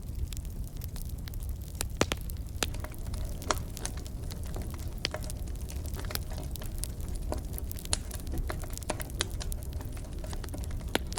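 Wood fire in a fireplace crackling: irregular sharp pops and snaps over a low steady rumble, with a few louder pops about two seconds in, near eight seconds and near the end.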